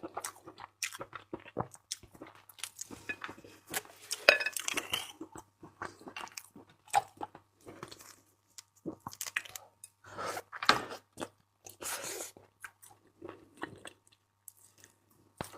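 Close-miked chewing and biting of raw seafood, with irregular crunches and wet smacking sounds.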